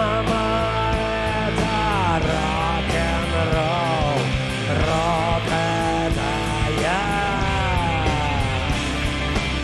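Live rock band playing an instrumental passage: a lead line of long, sliding sustained notes over steady bass and drums.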